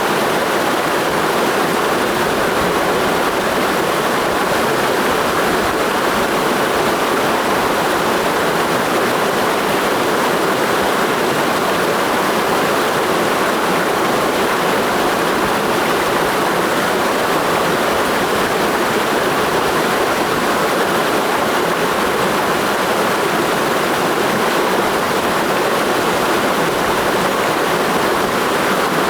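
Clear mountain stream rushing steadily over rocks in a gorge, a constant even rush of water with no breaks.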